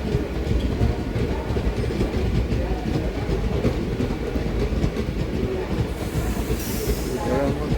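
A train running on the track, its wheels clattering over the rail joints with a steady rumble. A short hiss comes in about six seconds in.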